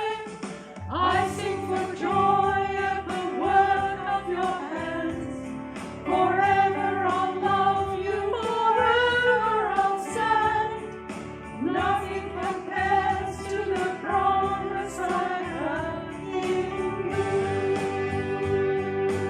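A small group of voices singing a hymn with guitar accompaniment.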